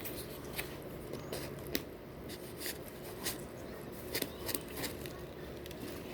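A person chewing food close to the microphone: irregular wet mouth clicks and smacks, with several coming close together about four seconds in.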